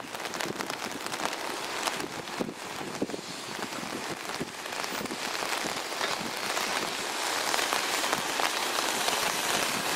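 Heavy typhoon rain falling steadily, with individual drops striking close by, getting louder in the second half.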